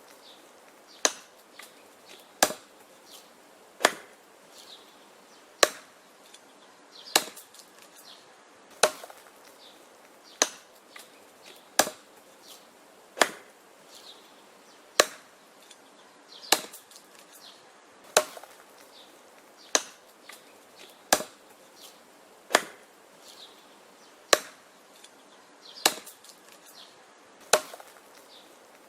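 Wood being chopped: a steady series of sharp chops about every one and a half seconds, with fainter knocks between them.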